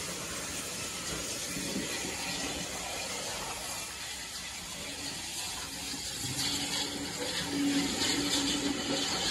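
Passenger coaches of a steam-hauled train rolling past at close range, their wheels clicking and clattering over the rail joints. The sound grows louder about six seconds in.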